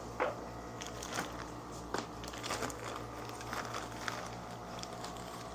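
Plastic bag of bird seed being handled and opened, with irregular crinkling and small clicks, over a steady low electrical hum.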